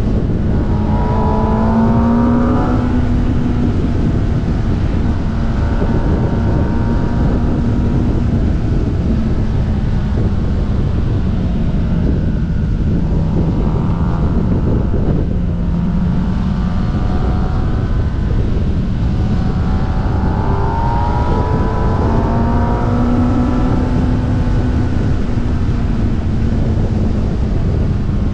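Kawasaki ZX-10R's inline-four engine running at road speed under a heavy rush of wind on the microphone. The engine note climbs twice as the bike accelerates, about a second in and again past the twenty-second mark, and sinks lower in between.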